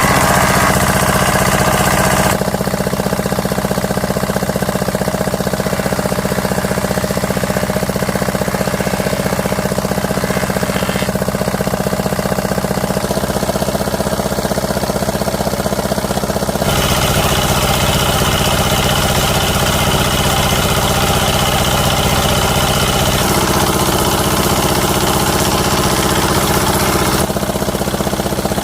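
A small engine or power tool running steadily with a rapid pulsing hum, its tone shifting abruptly a few times.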